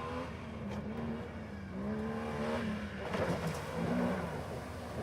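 Mud-bog truck engine revving, its pitch rising and falling, with a louder rush of noise about three seconds in.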